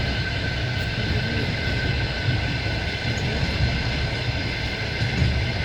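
Passenger train running along the line, heard from inside a carriage at an open window: a steady rolling rumble of the wheels on the rails.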